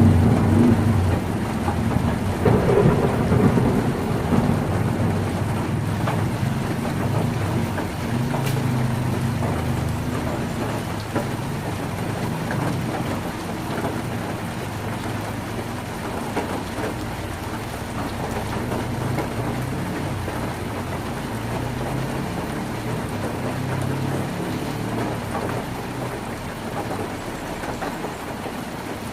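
Heavy rain pouring steadily on a tin roof. A loud low rumble fades away over the first few seconds, and softer low rumbling comes and goes after it.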